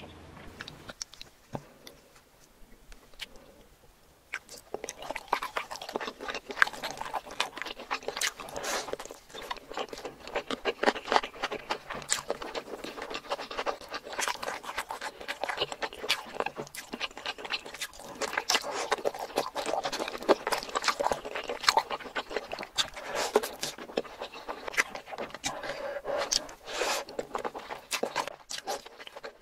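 Close-miked ASMR eating of spicy boneless chicken feet: dense, irregular wet chewing clicks and crunches of the cartilage, starting about four seconds in after a quieter stretch with a few clicks.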